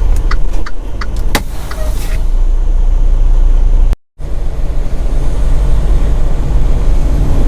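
Semi-truck cab sound: the indicator clicking at about two and a half clicks a second for the first second and a half, over steady low engine noise. The sound cuts out briefly about four seconds in, then the truck's engine and road noise run steadily.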